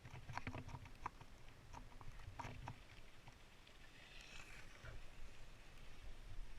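Faint small clicks and knocks, a quick cluster of them in the first three seconds, then a brief soft hiss, over a low rumble.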